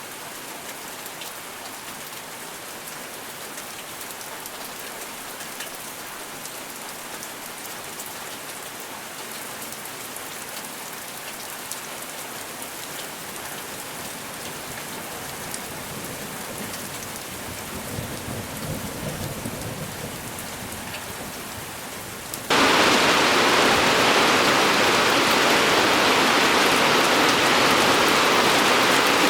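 Steady rain falling, with a low rumble of distant thunder rising and fading a little past the middle. About three-quarters of the way through, the sound jumps abruptly to a much louder, heavier downpour that carries on steadily.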